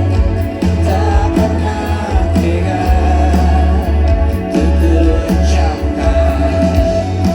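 Live band music with singing at a rock concert, heavy with bass, recorded from the crowd on a phone.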